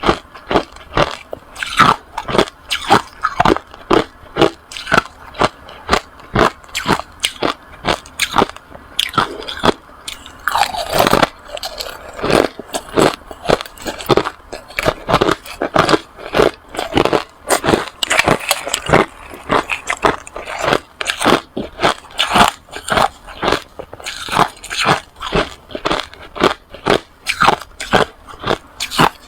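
Hard ice being bitten and chewed close to the microphone: a steady run of sharp, crisp crunches, a few each second.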